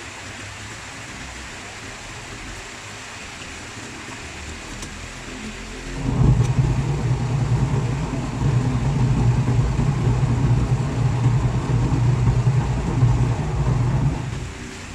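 Washing machine motor switching on about six seconds in and running with a steady low hum for about eight seconds before stopping. This is a wash-cycle test of the repaired machine.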